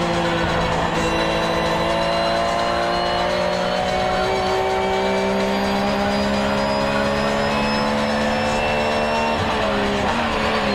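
Car engine heard from inside the cabin, its note climbing slowly as the car accelerates, then dropping near the end, with steady tyre and road noise underneath.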